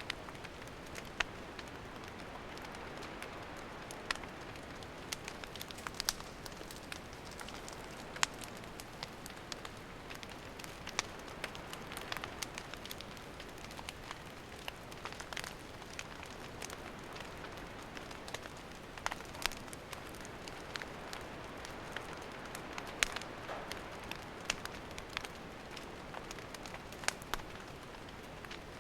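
Wood campfire crackling: a steady soft hiss with irregular sharp pops and snaps, a few of them louder.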